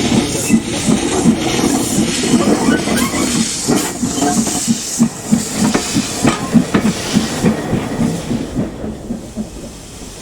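Steam locomotive running with a train: a regular pulsing of about three beats a second under a hiss of steam, fading away near the end.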